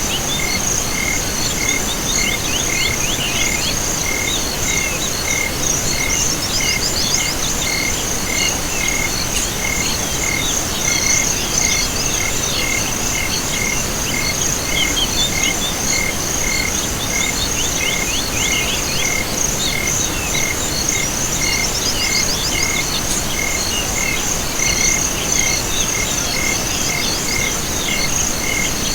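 A chorus of insects and frogs: a continuous high-pitched insect trill, a regular chirp about one and a half times a second, and bursts of quick falling trilled calls every few seconds, over a steady hiss.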